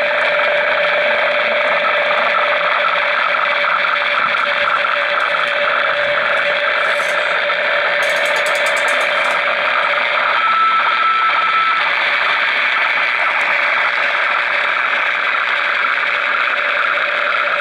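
Realistic DX-200 shortwave receiver's speaker playing an unidentified signal found near 9 MHz: a loud, steady, dense buzzing hiss with several fixed tones in it. A short steady tone sounds for about a second, about ten seconds in.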